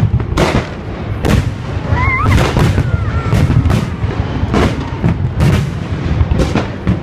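Festival fireworks salute: shells bursting in quick succession, about one to two bangs a second over a continuous low rumble. A brief wavering whistle about two seconds in.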